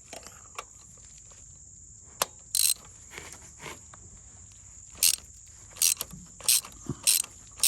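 Socket ratchet clicking in short bursts as it unscrews a deep-set spark plug. The bursts come about every half second in the second half.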